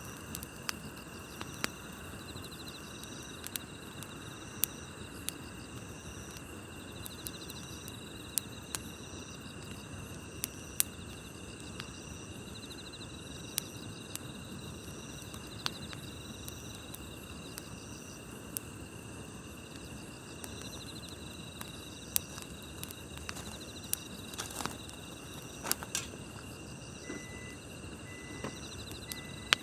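Campfire crackling, with irregular sharp pops over a steady low hiss. Under it runs a continuous chorus of night insects chirping, one of them in a pulsing trill that repeats about once a second.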